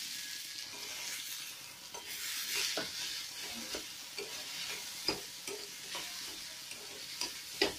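Boiled potato sizzling in hot oil and spices in a metal kadai as it is stirred and broken up, the metal spoon scraping and tapping against the pan. The loudest taps come about five seconds in and near the end.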